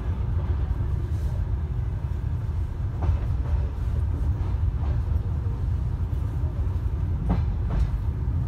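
Passenger train on the move, heard from inside the carriage: a steady low rumble with a few faint knocks of the wheels on the rails.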